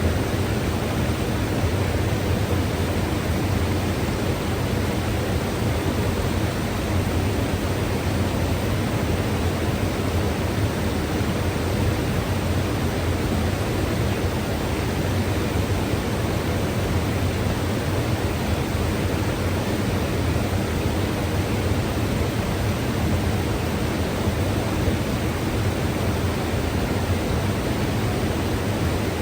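Mountain river rushing over rocks: a steady, full rush of water, strongest in the low range, with no breaks or single events.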